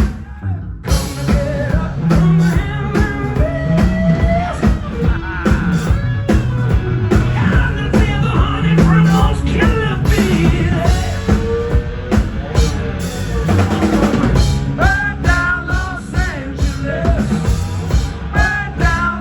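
Rock band playing live: a drum kit, bass and electric guitar with a singing voice.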